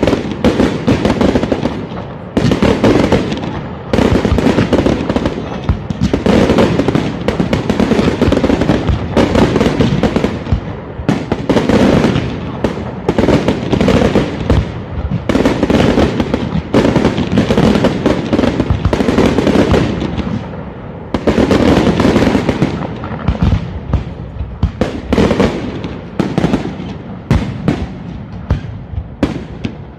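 Aerial fireworks display: a dense barrage of shell bursts going off in rapid succession, bang after bang with crackle between them.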